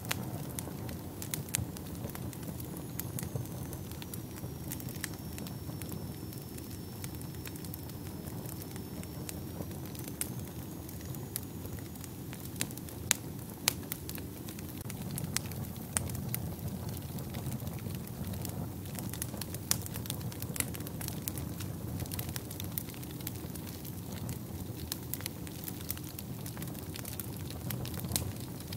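Wood fire burning in a fireplace: a steady low rumble of flames with frequent sharp crackles and pops, a few louder snaps about halfway through. A faint high thin whistle dips and rises in the first part.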